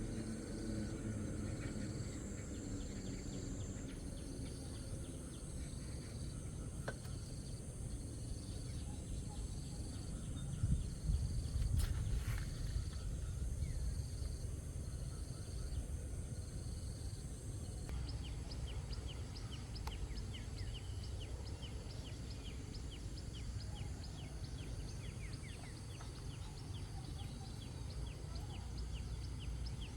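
Outdoor background noise: a steady low rumble, with a high insect-like chirp pulsing about once a second that gives way past the middle to denser, rapid chirping. There are a couple of faint clicks in the first half.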